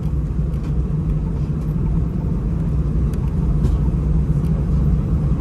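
Cabin noise inside an Airbus A319 taxiing before takeoff: a steady low rumble of the jet engines at low power and the wheels rolling, growing slightly louder in the second half.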